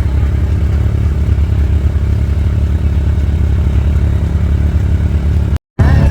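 ATV engine running steadily while riding, a low pulsing engine note with no change in pitch; it drops out abruptly for a split second near the end.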